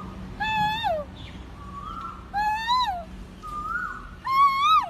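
Three loud, drawn-out whooping calls from a girl's voice, each rising then dropping in pitch, imitating a bird. Between them, fainter rising bird calls answer.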